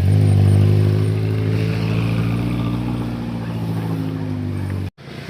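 A motor vehicle's engine, pitch rising just before the start and then held with the pitch slowly sinking. It cuts out abruptly for a moment near the end.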